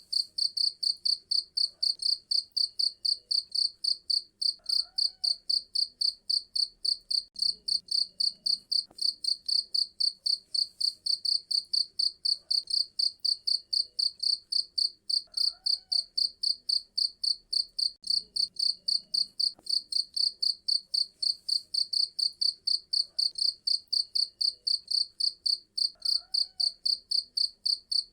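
Cricket chirping steadily, a shrill high chirp repeated about three to four times a second without a break.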